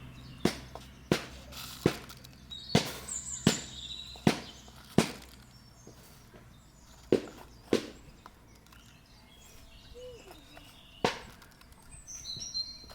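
Sharp chopping strikes, about one every two-thirds of a second for the first five seconds, then three more scattered ones. Short bird chirps come around three seconds in and again near the end.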